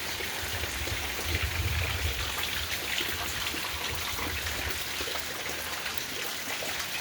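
Steady rain falling, a dense patter of drops with a low rumble underneath, strongest from about one to two seconds in.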